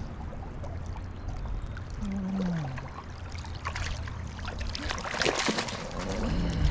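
River water flowing over a steady low rumble, with a burst of splashing about five seconds in as a hooked trout is handled at the surface.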